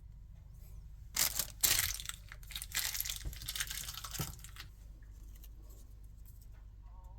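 Tearing and crinkling noise, as of something being ripped and crumpled, starting about a second in and lasting about three and a half seconds, with the sharpest rips at its start.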